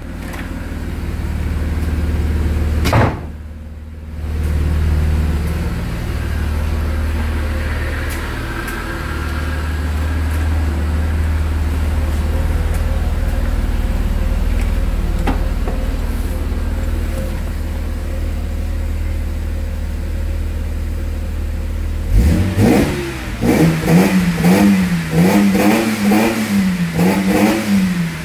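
Mercedes-Benz M103 3.0-litre straight-six in a W124 idling with a steady low drone, then revved in quick repeated throttle blips from about twenty-two seconds in. A single knock about three seconds in.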